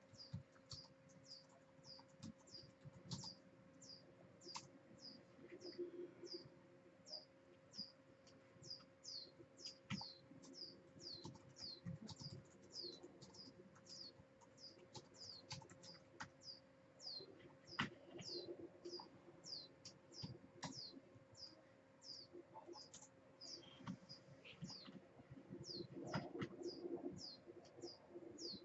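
Faint, short, falling high-pitched chirps repeating about twice a second, like a small bird calling over and over, with scattered clicks of typing on a computer keyboard and a steady low hum.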